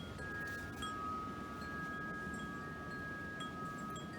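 Wind chimes ringing: a few long, steady tones sounding together, a new one struck about a second in and ringing on.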